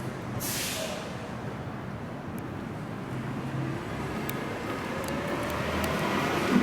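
Steady rumble of a vehicle, slowly growing louder, with a short burst of hissing air about half a second in and a few faint clicks later on.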